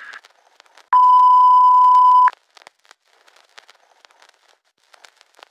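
Broadcast interruption tone: a single loud, steady beep lasting about a second and a half, starting about a second in. Faint crackling static follows it.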